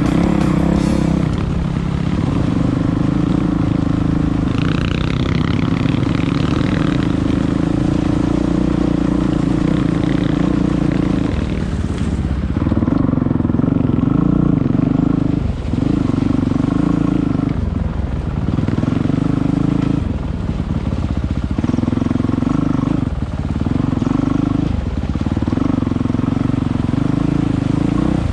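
Enduro motorcycle engine running while being ridden. From about halfway through, its note cuts back and picks up again every second or two as the throttle is worked.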